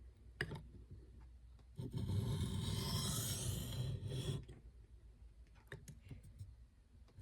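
A hardened Nitro-V steel knife blade scraping across a sharpening whetstone in one continuous stretch of strokes lasting about two and a half seconds, with a few light clicks before and after.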